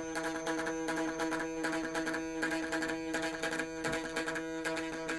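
Triang B12 model locomotive's electric motor and gearing running in reverse, a steady buzzing whine that holds one pitch throughout.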